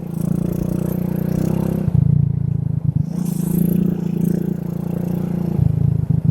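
Small motorcycle engine running as the bike is ridden, heard from a phone carried in the rider's shirt pocket, with fabric rubbing and scraping on the microphone. The engine note drops briefly and picks up again a few times.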